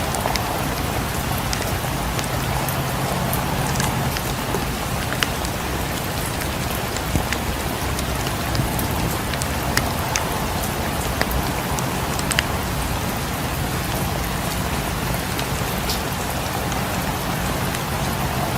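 Steady rain falling, with scattered sharp clicks throughout.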